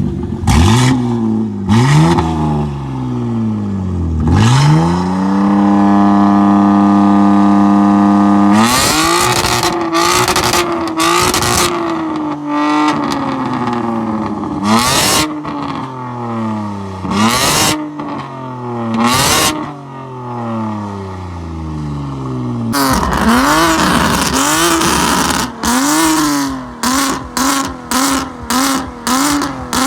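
BMW M car exhausts being revved hard. Repeated rev blips rise and fall, one rev is held steady for a few seconds, and sharp pops sound as the revs drop. A quick series of short blips comes near the end.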